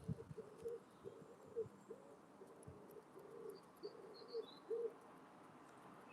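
Wood pigeon cooing: a steady run of short, soft, low coos repeating about twice a second, with a few faint taps and soft thumps among them.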